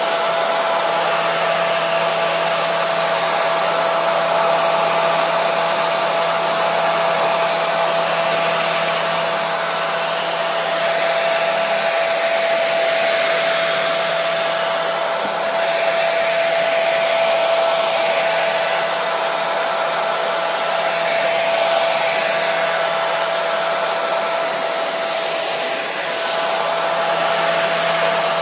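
Hair dryer running continuously: a steady rush of air with a constant whine from the motor, swelling slightly now and then.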